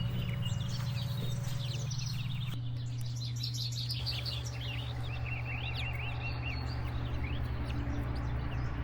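Birds chirping with many short, quick calls, over a steady low hum that shifts in pitch a couple of seconds in.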